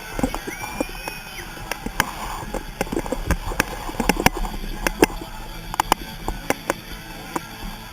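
Irregular sharp taps and knocks, several a second, over a low steady hum.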